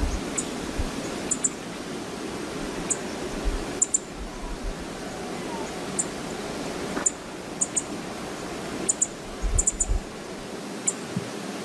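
Waterfall rushing steadily, with wind buffeting the microphone in irregular low thumps. Many short, sharp high-pitched ticks are scattered through it.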